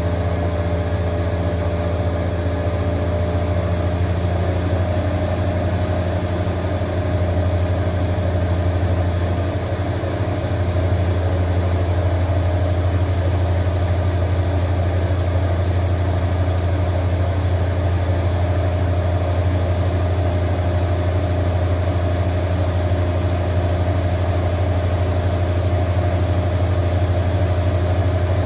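Zanker EFX 4875 washing machine in its final spin, the drum turning at high speed with a steady low hum. It grows slightly louder about ten seconds in.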